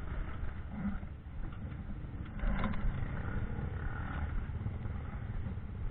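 Off-road motorcycle engine running at a distance, a steady low rumble.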